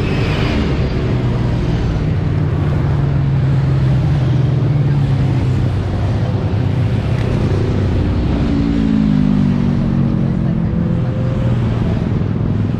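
Motorcycle engines running together, their engine notes rising and falling as bikes ride past, with a rise in pitch about eight seconds in.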